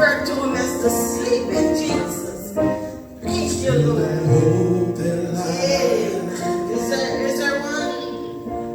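Live gospel music: instruments playing sustained chords with a singing voice gliding over them.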